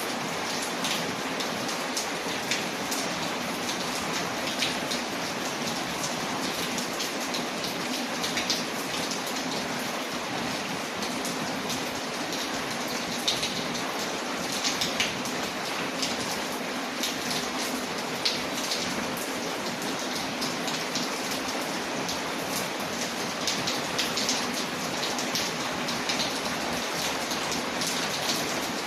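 Steady rain falling, with many short, sharp ticks scattered over the even hiss.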